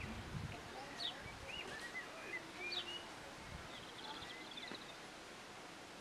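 Birds chirping in quiet outdoor ambience: scattered short rising and falling chirps, and a quick trill about four seconds in.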